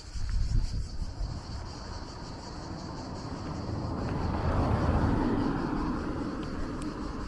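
A motor vehicle passing by, its noise growing to a peak about five seconds in and then fading away. A steady high insect chirring runs underneath.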